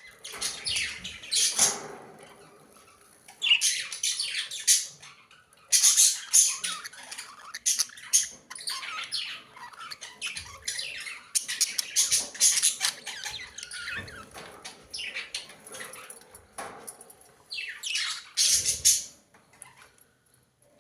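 Budgerigars chattering, with repeated sharp squawks coming in bursts separated by short lulls.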